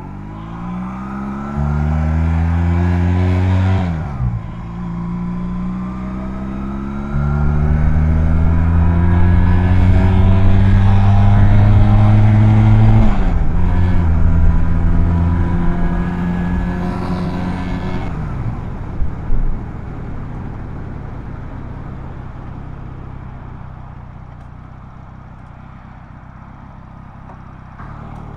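Honda Rebel 250's parallel-twin engine pulling away and accelerating through the gears: the pitch climbs and drops sharply at each of three gear changes, then settles lower and fades in the last third.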